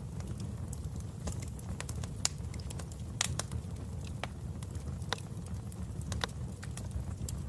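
Wood fire burning in a fireplace: a steady low rumble with irregular sharp crackles and pops, the loudest a little after two seconds in and again about a second later.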